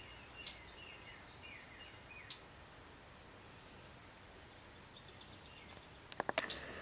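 Small birds calling: scattered sharp high chip notes and short falling chirps over a faint outdoor background, with a quick run of sharp clicks a little after six seconds in.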